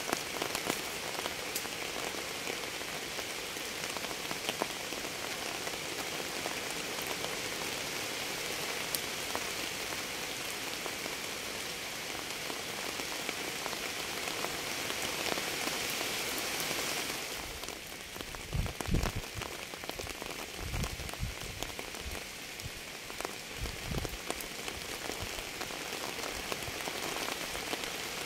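Steady rain falling on a surface, an even hiss dotted with single drops ticking. About two-thirds of the way in, the hiss thins and a few dull low thumps come in.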